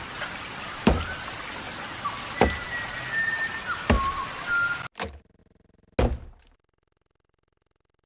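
Axe blows chopping into a tree trunk, one heavy thunk about every second and a half, with birds whistling behind. The sound cuts off suddenly to silence about two-thirds of the way through.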